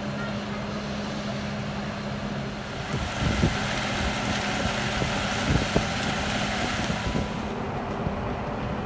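Outdoor background noise with wind buffeting the microphone, giving a few low thumps about three and a half and five and a half seconds in, over a steady rushing haze and a faint low hum.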